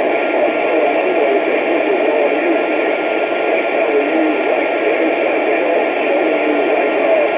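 Steady radio static hiss from an open receiver channel, with faint wavering tones mixed into it.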